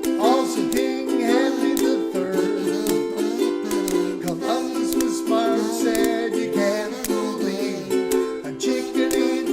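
Ukulele strumming a steady chord rhythm, with a higher melody line weaving over it: an instrumental passage with no singing.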